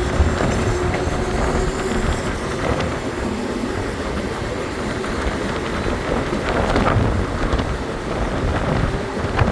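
Belo Horizonte Metro Series 900 electric multiple-unit train running along the line: a steady rumble with a rushing, wind-like noise and a few sharp knocks from the wheels on the rails near the end. A steady motor hum fades out just after the start and comes back at the very end.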